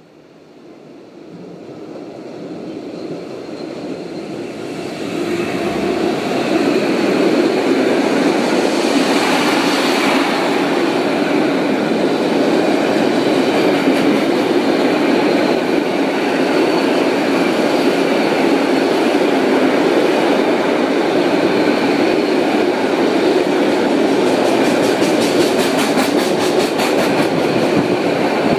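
A freight train approaches, growing louder over the first few seconds, then its long line of wagons rolls past close by: a loud, steady rumble of steel wheels on rails. Rapid clicking of wheels over rail joints comes near the end.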